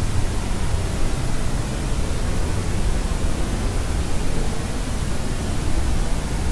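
Steady sleep-aid white noise, a constant hiss weighted toward the low end like pink noise, with no change and no baby's cry heard over it.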